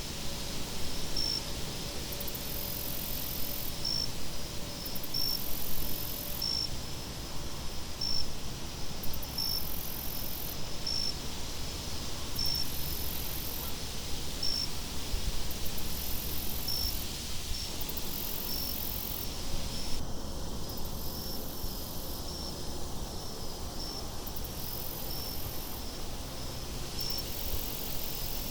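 Night insects chirping in a steady rhythm, about one chirp a second, with a high trill switching on and off, over a low wind rumble.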